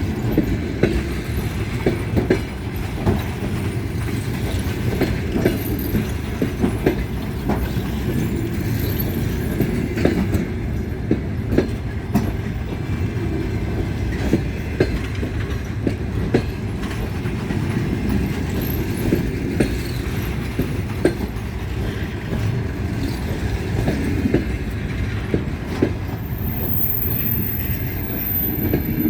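Passenger coaches of a train rolling past, their wheels clacking over rail joints above a steady rumble.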